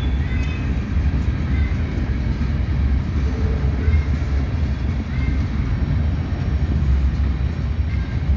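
Ferrosur freight train rolling past with a loud, steady low rumble, with short faint high squeaks now and then.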